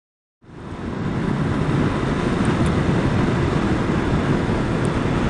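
Steady low rumble of a motorcycle running, fading in within the first second.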